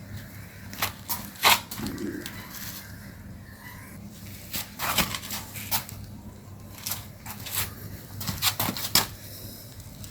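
Irregular sharp scratching and rustling sounds, a dozen or so, from a kitten and its mother cat scuffling at play; the loudest comes about a second and a half in, and a quick cluster comes near the end.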